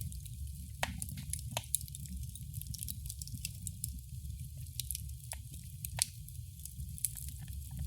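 Wood fire in a fireplace crackling, with irregular sharp pops over a steady low rumble of the flames; the loudest pop comes about six seconds in.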